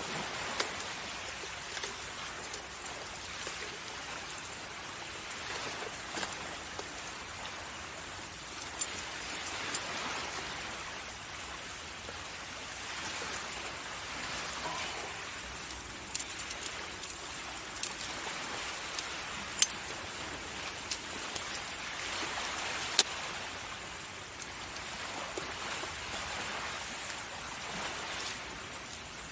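Wood fire crackling, with scattered sharp pops, the loudest a little past the middle, over the steady wash of waves on a beach that swells and eases every few seconds.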